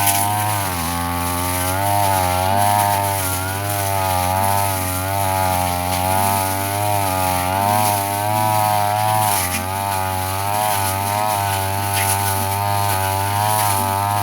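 Brush cutter engine running at high speed while its blade cuts grass, its pitch repeatedly dipping and recovering about once a second as the blade meets the grass.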